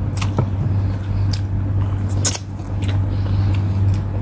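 Close-up chewing and biting sounds of someone eating rice and chicken adobo wings by hand, with a few short sharp smacks and clicks, over a steady low hum.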